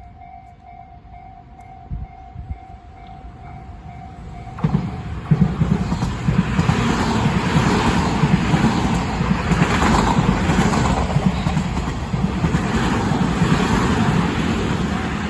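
A Tobu Tojo Line electric train passing close by: its running noise starts suddenly about four and a half seconds in and stays loud, with a strong low rumble. Before it arrives, a steady pulsing two-tone ding is heard, typical of a Japanese level-crossing alarm.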